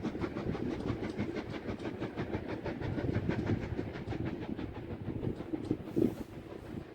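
Steam-hauled train running on the track, with a rapid, even beat of clicks over a low rumble that thins out towards the end.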